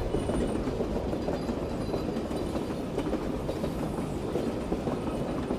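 A train running along the rails: a steady rumble with a dense, rapid rattle of wheels on track.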